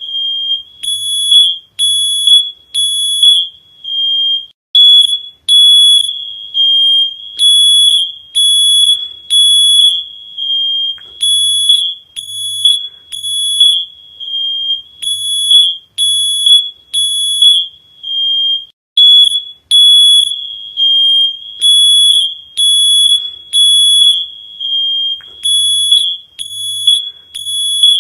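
Electronic alarm beeping loudly on one high, shrill tone, about one beep a second in an uneven pattern, some beeps running together into longer ones.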